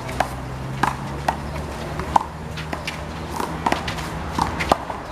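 One-wall handball in play: the big blue rubber ball slapped by hands and smacking off the wall and court, a string of sharp, irregular smacks every half second to a second. A steady low hum runs underneath.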